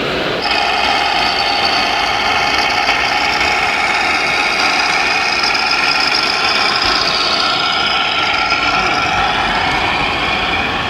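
Steady high-pitched whine of small electric motors in RC model machinery, starting about half a second in, with its pitch wavering slightly near the end.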